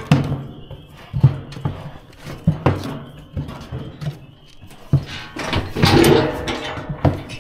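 Irregular knocks and clanks of a calf's hooves and the metal frame of a livestock scale as the calf is driven onto it to be weighed, with a busier, louder stretch of rattling about five seconds in.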